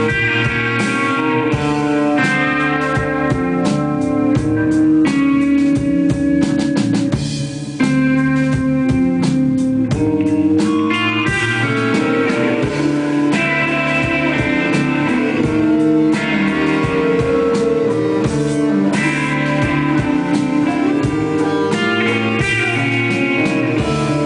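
A band playing live, with guitar and drums, loud throughout, with a short drop in loudness about seven and a half seconds in.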